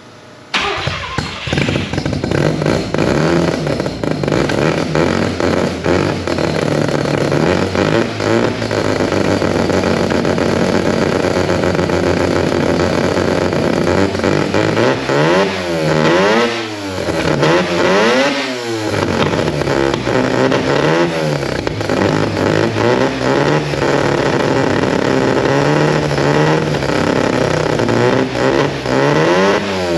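Mazda 13B rotary engine catching about half a second in and running, revved up and down several times near the middle. The owner says it runs badly and suspects low voltage to the ECU from a weak battery and charging system.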